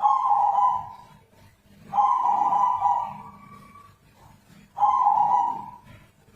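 Zebra dove giving three drawn-out calls, each about a second long and roughly two seconds apart, the middle one the longest. This is the unusual call for the species that its keepers single out as strange.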